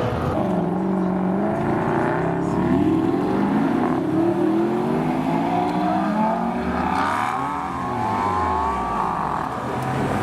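Supercar engines revving and accelerating, their pitch rising and falling again and again, with more than one engine heard at once.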